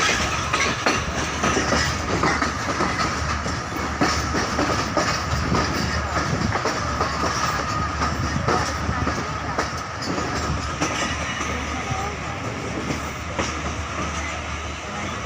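Moving passenger train: a steady rumble of the running train with many short, irregular knocks from the wheels clattering over the rails.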